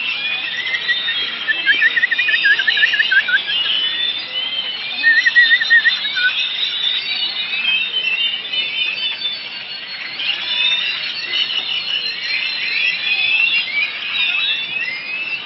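Many songbirds chirping and singing at once in a dense, overlapping chorus. A rapid wavering trill stands out twice, about two seconds in and again about five seconds in.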